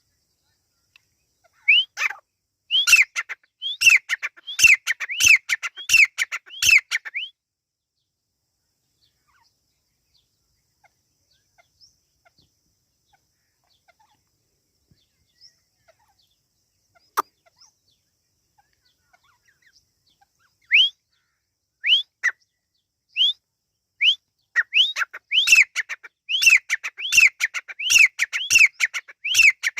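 Teetar (francolin) calling: a fast run of sharp whistled notes, each sweeping up and then down, for about five seconds. After a long pause broken by a single click, scattered notes return and build into another fast run near the end.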